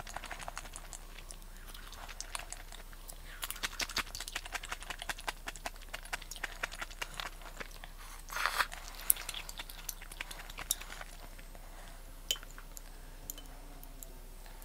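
Close-up chewing and crunching of food: a dense run of small crunches and mouth clicks with a louder crunch about eight seconds in, thinning out to a few scattered clicks near the end.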